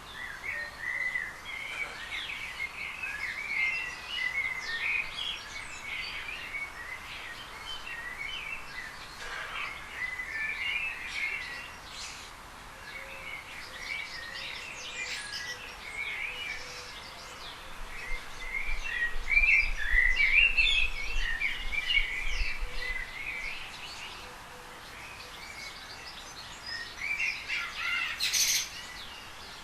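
Small birds chirping, many short calls overlapping throughout, with a low rumble for a few seconds in the middle.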